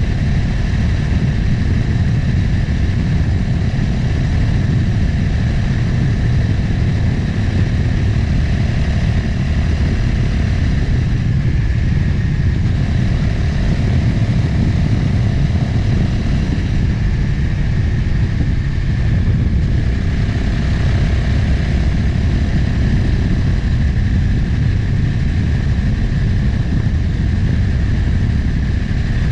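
Motorcycle engine running while riding along the road, with wind noise over the microphone. The engine note shifts briefly twice.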